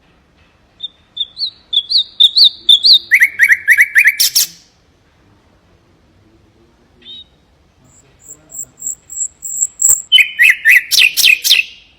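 Common nightingale singing two phrases of rapidly repeated notes and clicks, each about four seconds long, with a single short note in the pause between them. The second phrase opens with a string of high, thin whistled pips.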